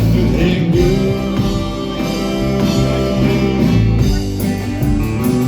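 Live band playing a rock-country song: electric guitar, bass and drums, with singing.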